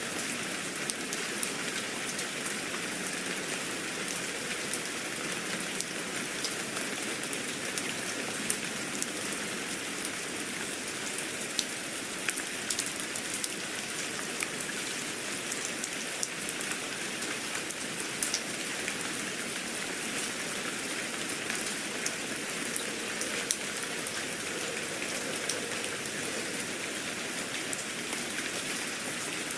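Steady rain falling on a surface: an even hiss with many small scattered drop ticks.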